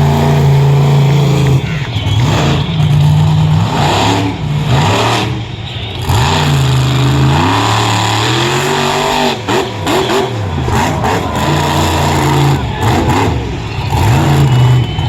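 Monster truck engine revving hard and easing off over and over, its pitch climbing and dropping every second or two.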